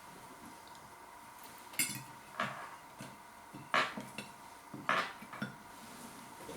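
Knife and fork clinking and scraping on a plate, a handful of short sharp knocks a second or so apart, while a pie is eaten.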